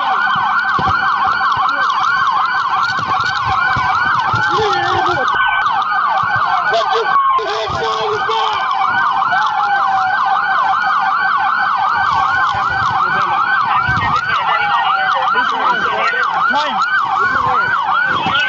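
Several police car sirens sounding together: a fast yelp sweeping up and down about four times a second, overlapped by a slower rising and falling wail.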